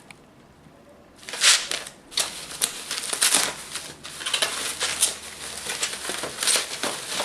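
Packing material being handled while a parcel is unpacked: irregular rustling and crinkling with a few sharp clicks, starting about a second in.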